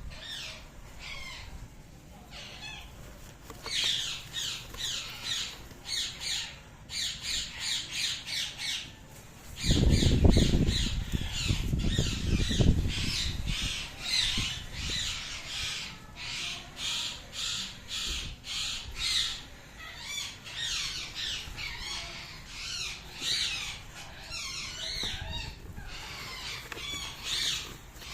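Indian ringneck parrots calling over and over in short, high, quick calls. A loud low rumble about ten seconds in lasts a few seconds.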